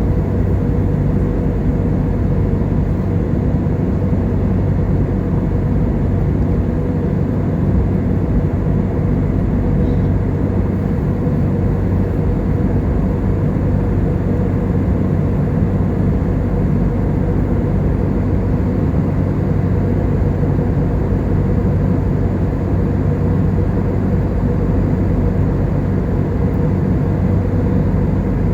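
Steady drone of an airliner's engines and airflow heard inside the cabin, with a low hum and no changes.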